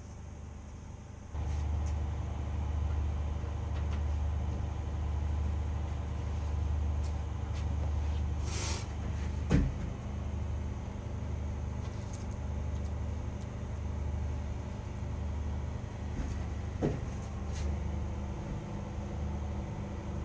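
A steady low machine hum starts abruptly about a second in and keeps running, with a short hiss partway through and two sharp knocks, one near the middle and a second later on.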